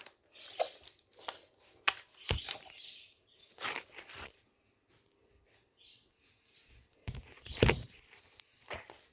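Irregular taps, clicks and scrapes of kitchen things being handled while a coffee is made, with a heavier thump about seven and a half seconds in.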